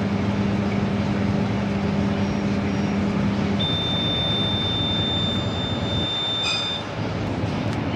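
Microwave oven running with a steady hum, which cuts off about three and a half seconds in as the cooking time ends; a single long, high beep then sounds for about three seconds, with a short click near its end.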